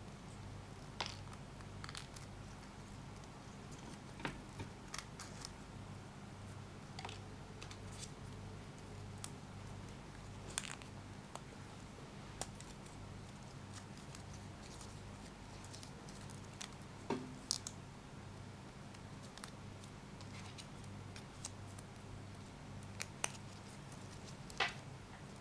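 Scattered small clicks, taps and rustles of hands handling Kinder Joy egg packaging and small plastic toy parts, over a steady low hum.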